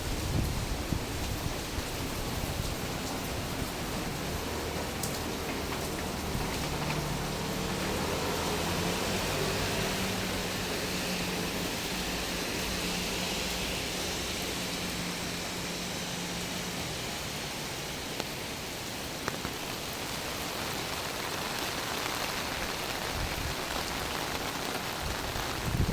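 Steady rainfall: an even hiss of rain falling on the street and surfaces. A low hum rises under it a few seconds in and fades out past the middle.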